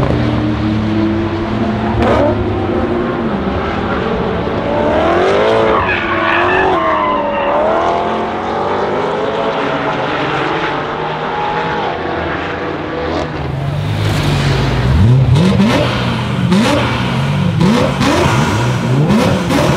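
BMW M3 E92's V8 with a custom exhaust running hard and loud, its pitch climbing and dropping with gear changes and throttle. Near the end the engine is blipped up sharply several times in quick succession.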